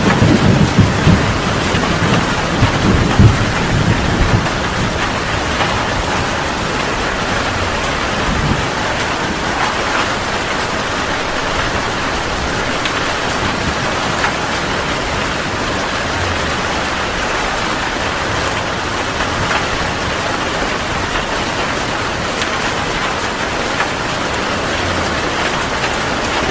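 Heavy rain falling in a steady, even hiss. A low rumble of thunder dies away over the first few seconds.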